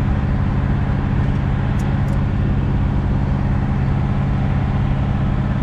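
Diesel engine of a semi truck idling steadily, a constant low hum.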